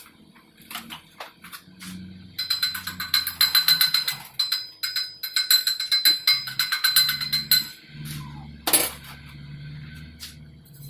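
Dense, rapid metallic crackling and clinking from work on a steel pipe, lasting about five seconds, with scattered clicks before it and one sharp knock near the end. Faint background music runs underneath.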